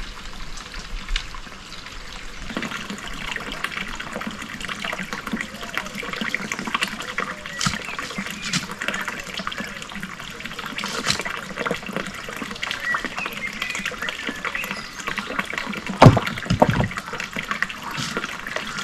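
Water running and trickling steadily, with scattered small clicks and one loud thump about 16 seconds in.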